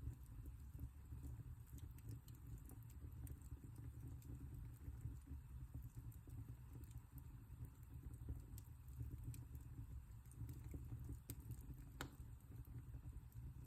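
Wood fire burning in a fireplace: faint, scattered crackles and small pops over a steady low rumble, with one sharper pop near the end.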